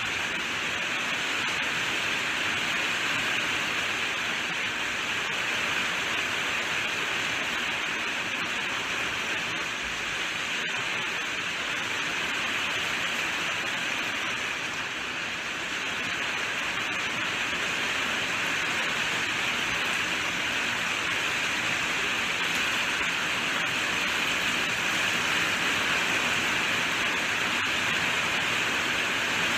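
Steady rainfall, an even hiss of falling rain with no let-up.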